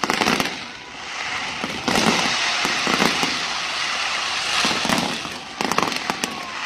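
Fireworks barrage: a sharp bang, then a dense hissing crackle of rockets thickening about two seconds in, broken by several more sharp bangs.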